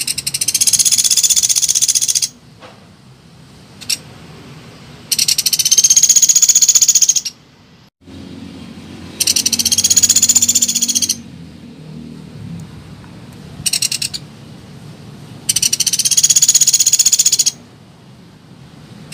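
Common flameback woodpecker (pelatuk beras) calling: loud, high, rapid rattling trills about two seconds long, four of them with a brief burst between the third and fourth.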